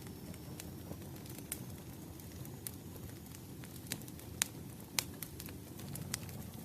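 Wood fire burning briskly: a steady low rumble of flames with irregular sharp crackles and pops from the burning logs, the loudest about four and a half and five seconds in.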